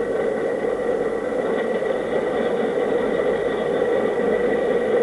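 A steady, unchanging mechanical hum with a thin constant whine over it.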